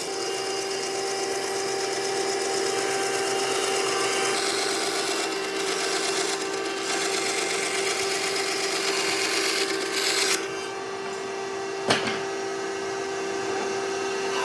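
An electric power tool running on wood with a steady motor whine under a hiss. The hiss stops about ten seconds in and the motor whine carries on, with one sharp knock about two seconds later.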